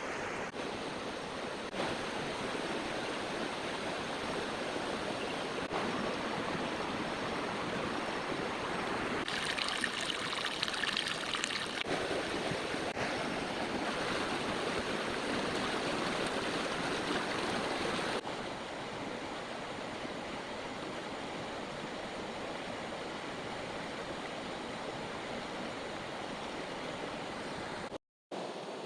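Heavy rain pouring down as a dense, steady hiss. It grows a little louder and brighter around ten seconds in and eases slightly about eighteen seconds in, with a brief cut-out near the end.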